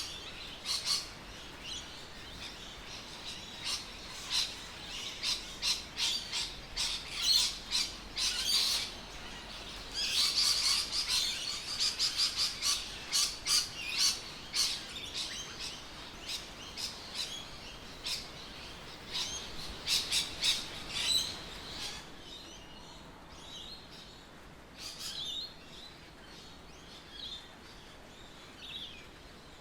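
Birds chirping: many short, high calls overlapping in a busy chorus that thins out and grows quieter after about twenty seconds.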